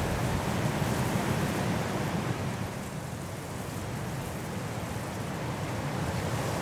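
High winds of a snowstorm blowing through trees: a steady rushing noise that eases a little about halfway through and then picks up again.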